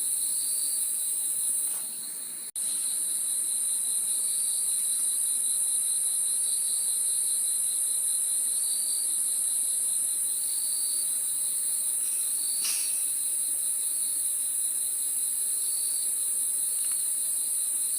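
Crickets chirping: a steady high-pitched trill with a softer repeating chirp about every two seconds. The sound dips and cuts out for an instant about two and a half seconds in.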